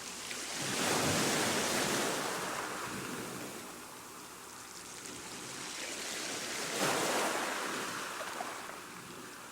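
Ocean waves surging onto the shore twice, once about a second in and again near seven seconds in. Each surge is a hissing wash of surf that slowly fades away.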